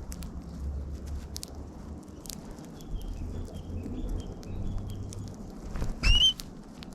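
Small birds feeding close by on seed in lawn grass, with many light pecking clicks, over a low rumble. A run of soft chirps halfway through, then one loud, short rising call about six seconds in.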